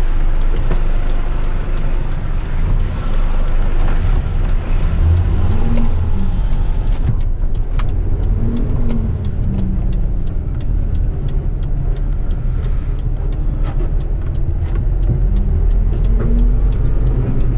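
Heavy rigid truck's diesel engine running as the truck pulls away, its revs rising and falling several times.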